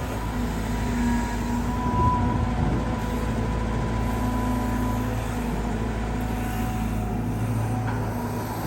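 Caterpillar 320GX excavator's four-cylinder C4.4 diesel engine running under digging load, with a steady whine from the hydraulic pump. A brief louder, rougher stretch comes about two seconds in.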